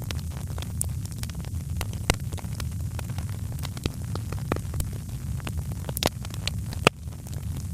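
Wood fire crackling: irregular sharp pops and snaps over a steady low rumble of burning flames, with two louder pops near the end.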